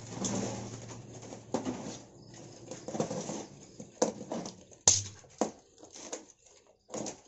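Irregular scrabbling, taps and knocks of live songbirds moving and fluttering inside a box or cage, with short rustles between the knocks.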